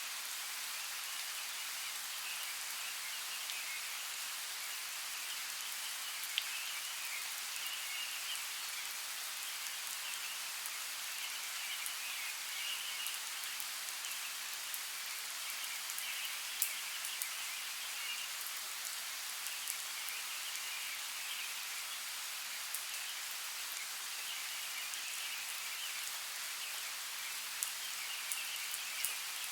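Steady hiss of water in a forest, with scattered sharp drop-like ticks. A high chirring chorus fades in and out over it several times.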